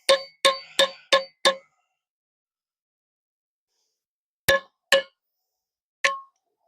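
Hammer blows on a steel U-joint yoke, each ringing out: five quick strikes in the first second and a half, a pause of about three seconds, then two more and a last one. The blows are driving out a stubborn U-joint bearing cap.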